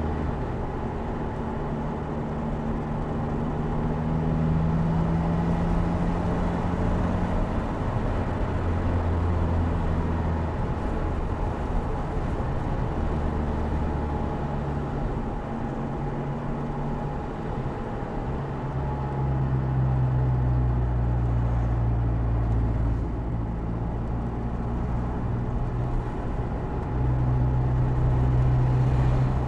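Opel Speedster Turbo's 2.0-litre turbocharged four-cylinder running on the road under changing load. The engine note steps up and down in pitch several times and gets louder about two-thirds of the way in and again near the end. Wind and tyre noise from the open cockpit lie underneath.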